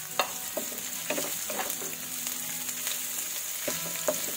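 Ginger, onion and garlic sizzling in hot oil in a wok, stirred with a wooden spatula that knocks and scrapes against the pan several times, most sharply just after the start.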